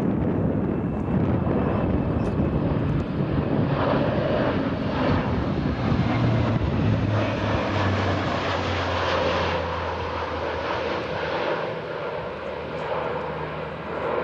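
Fixed-wing military aircraft flying overhead, its engines loud and then fading over the last few seconds as it passes.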